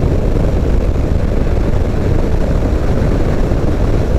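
Motorcycle riding at road speed: steady low rush of wind over the microphone mixed with the engine's drone, unchanging throughout.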